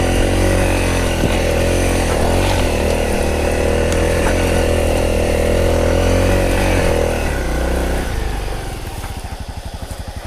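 Honda CRF250 dirt bike's single-cylinder four-stroke engine running steadily on the throttle, then easing off about eight seconds in to a slow putter with separate firing pulses.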